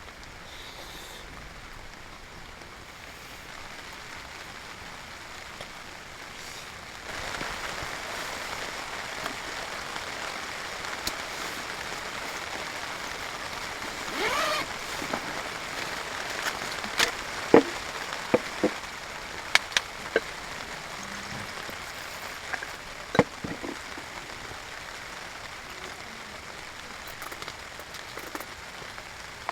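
Wood fire burning in a small fire stand: a steady hiss that grows a little fuller after a few seconds, with scattered sharp pops and crackles, most of them in the middle stretch.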